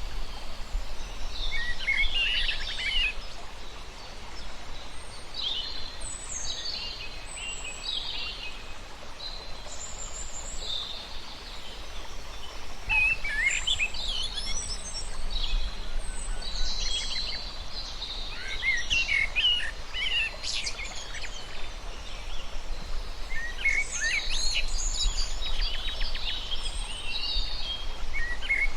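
Several birds chirping and singing in short overlapping phrases, over a steady low background rumble.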